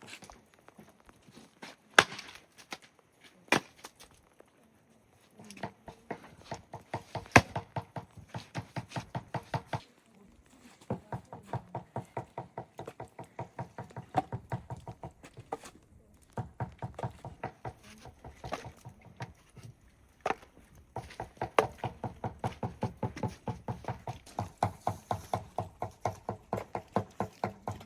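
A rapid, even series of knocks, about five a second, in runs of several seconds with short breaks, after a few single sharper strikes near the start.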